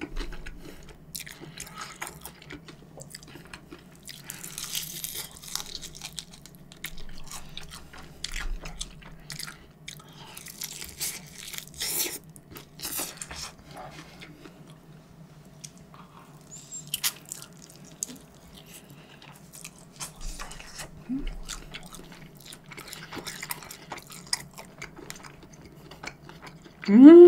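Close-miked eating sounds: crunchy bites and chewing of crispy seasoned fried chicken, heard as a run of irregular short crackles.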